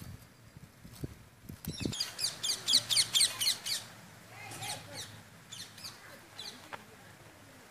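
A bird chirping: a fast run of sharp, high calls for about a second and a half, then a few fainter calls. A few soft clicks come before the chirping.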